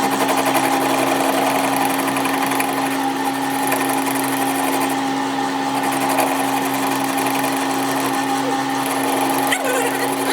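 A motor-driven machine running steadily with a constant hum.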